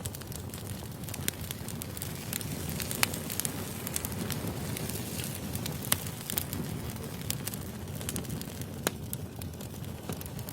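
Wood fire burning: a steady low rumble of flames with irregular crackles and sharp pops of burning logs, a few louder snaps scattered through.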